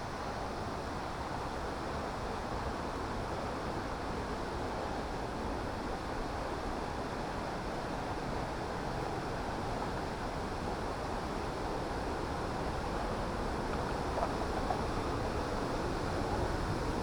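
Waterfall rushing steadily into a pool.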